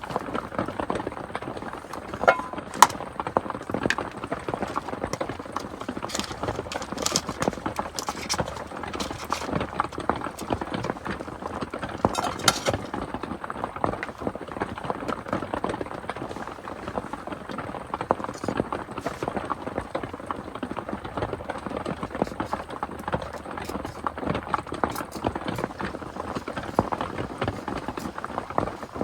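Rain pattering steadily on the shelter, a dense stream of small drop ticks with a few sharper clicks here and there.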